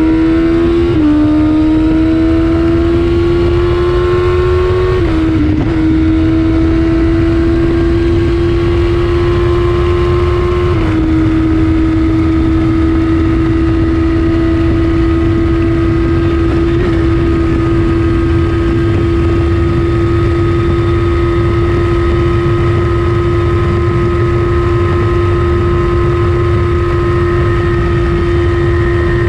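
2014 Kawasaki ZX-14R inline-four through an Akrapovic Racing Line exhaust at full speed, heard from the exhaust: the engine note climbs and drops back with quick upshifts about a second in, around five seconds and around eleven seconds, then holds a steady high-speed drone at constant revs.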